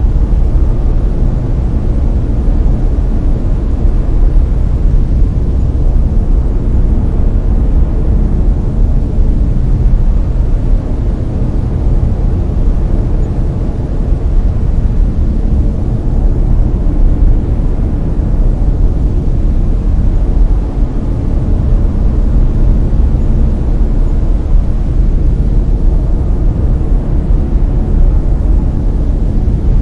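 Layered brown noise: a steady, even hiss that is deepest and strongest in the bass and fades toward the treble, with no breaks or changes.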